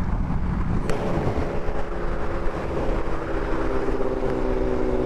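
2009 Honda CBR600RR's inline-four engine running at a steady cruise under heavy wind rush on the helmet's chin-mounted mic. The engine note changes briefly about a second in, then holds steady.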